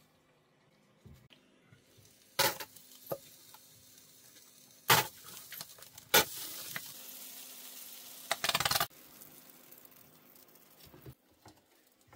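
Food sizzling briefly in a hot pan, starting suddenly and cutting off after about two and a half seconds, with a few sharp knocks of kitchen utensils before it.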